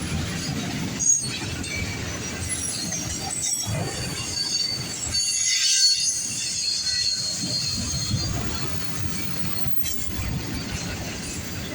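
Autorack freight cars rolling past with a steady low rumble and clatter, their wheels squealing in thin high tones. There is one sharp clank about a second in.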